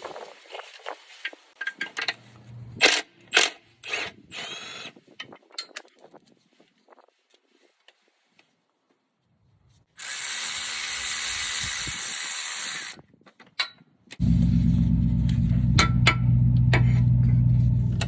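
Hand-tool work on the engine: scattered metallic clicks and knocks, then a few seconds of a power tool running with a loud hiss, then a steady motor hum for about four seconds near the end.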